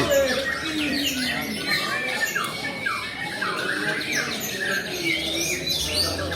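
White-rumped shama singing: a fast, continuous run of down-slurred whistles and chirps.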